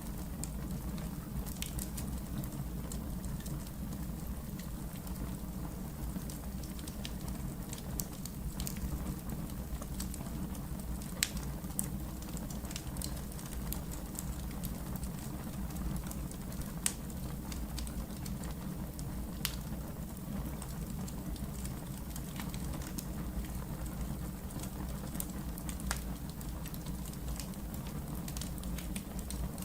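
Wood fire burning in a fireplace: a steady low rumble of flames with scattered, irregular crackles and a few louder pops.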